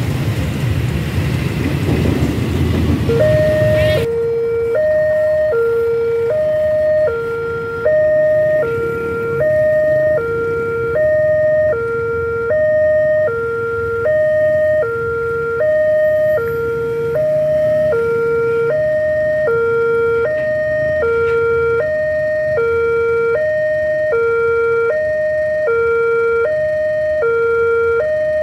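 Railway level-crossing warning alarm sounding a two-tone electronic signal, alternating high and low about every half second and repeating steadily. For the first few seconds it is mixed with a loud rush of passing traffic or train noise, which cuts off suddenly about four seconds in.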